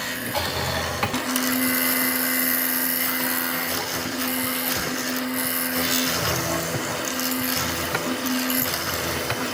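Handheld electric power tool running at high speed on wood, a steady whine that breaks and shifts a few times as it is worked against the piece.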